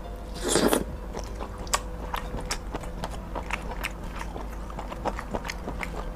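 A bite into a chewy konjac 'beef tripe' snack pulled from its packet, loud about half a second in, then close-miked chewing with many small crisp clicks.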